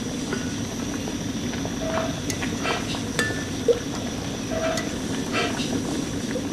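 Steady background hum with scattered light clinks and clicks and a single sharp knock about halfway through.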